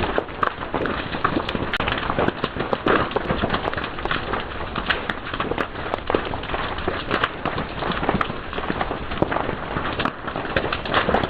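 Fire crackling steadily, with frequent sharp pops and snaps over a constant hiss.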